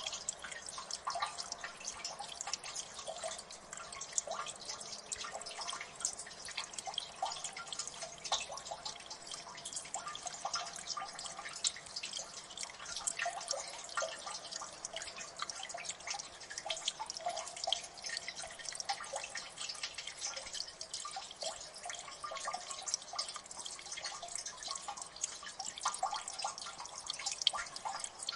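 Water dripping in a gully: many irregular drops falling into water, each a short plinking click, steady throughout.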